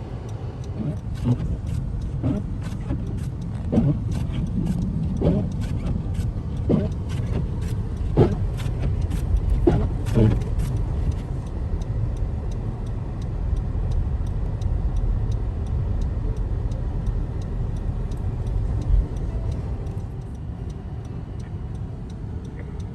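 Motor vehicle running with a steady low rumble. Regular ticking, about twice a second, runs over it and stops about eleven seconds in.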